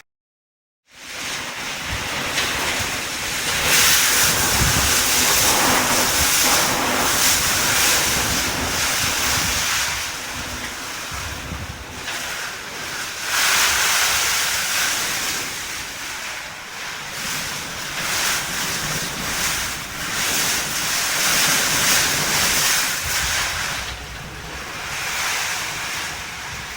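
Typhoon-force wind gusting hard and buffeting the microphone, a loud rushing roar that swells and eases every few seconds. It starts after about a second of silence.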